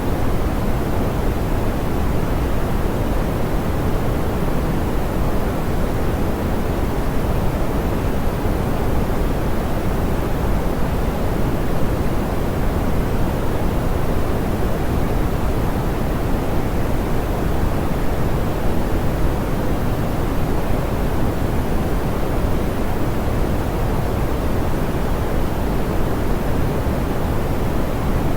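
Steady, soft pink noise, a smooth hiss weighted toward the low end.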